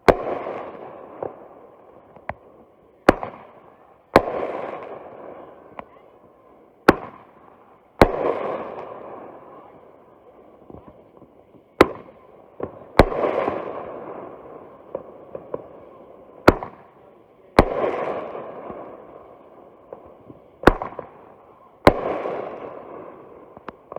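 TNT Salute 12-shot finale cake firing: each shot is a sharp launch report followed about a second later by a loud aerial burst with a fading tail, repeating every four to five seconds, about six times.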